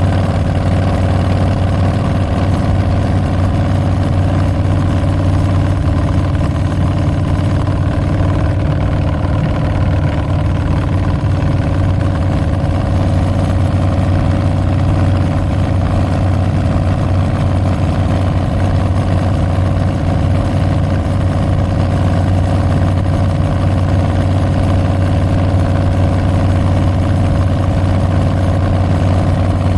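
Harley-Davidson Street Bob's Milwaukee-Eight 114 V-twin running steadily through Tabs Performance slip-on mufflers with Zombie Baffles. It gives a continuous low exhaust note that barely changes in pitch.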